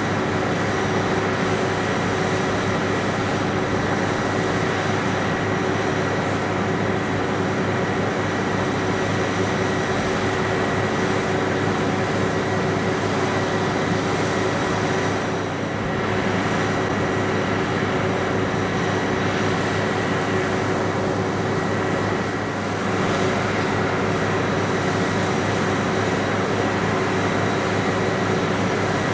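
Steady mechanical running of an aircraft ground power unit on the flight line, with a constant hum and a thin high whine, supplying the T-4 jets before engine start.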